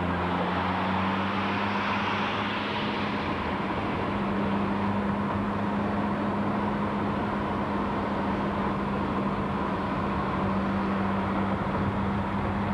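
Car engine and road noise heard from inside the cabin while driving, a steady drone whose engine note rises a little in the first couple of seconds.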